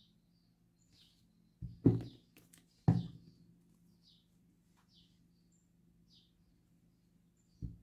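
Two dull thumps about a second apart, about two seconds in, from handling things on the work table. Behind them a small bird chirps faintly about once a second over a low steady hum.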